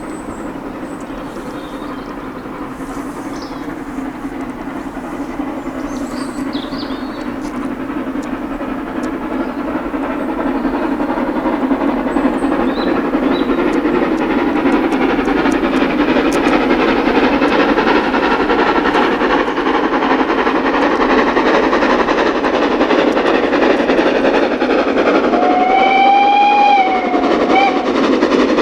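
Steam-hauled train approaching and passing, growing louder over the first dozen seconds and then holding loud. Near the end the locomotive's whistle sounds for about a second and a half, followed by a short second toot.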